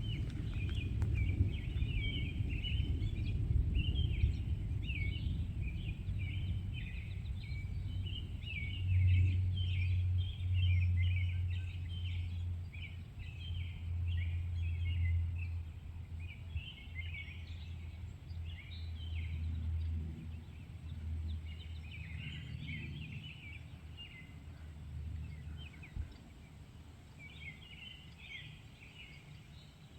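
Many small birds chirping and calling in quick, overlapping notes, over a low rumble that swells in the middle and fades away near the end.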